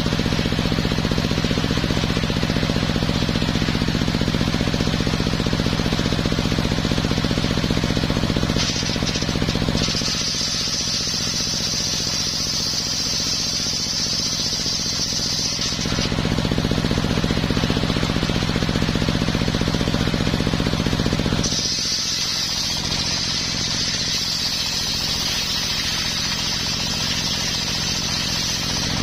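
Homemade circular sawmill running with a steady motor drone. Twice its blade bites into coconut wood with a high-pitched whine, once for several seconds about a third of the way in and again through the last third, and the drone drops under the load of the cut.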